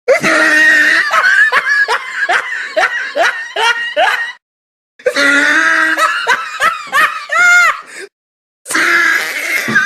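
Loud, hearty laughter in a rapid run of pitched pulses, about three a second. It comes in three stretches, each cut off by a brief silence.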